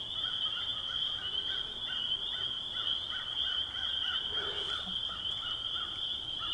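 A chorus of frogs calling: a dense, steady high-pitched trilling, with a lower call repeating about three times a second from about a second in.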